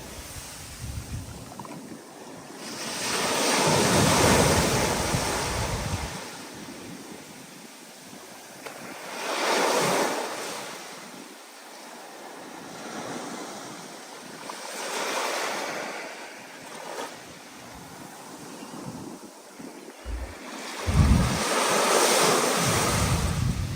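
Stormy sea with waves surging and breaking in slow swells every several seconds, over steady wind. Short low rumbles of wind on the microphone come near the end.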